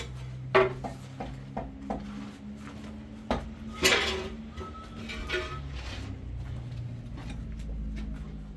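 Dishes and pots knocking and clinking as they are handled: a string of sharp knocks, some with a brief metallic ring, and the loudest clatter about four seconds in.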